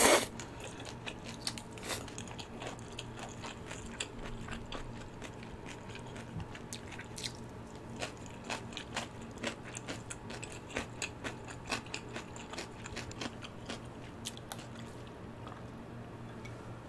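A slurp from a soup bowl right at the start, then close-up chewing: many small, sharp wet mouth clicks and crunches as spicy ramyun and its toppings are chewed.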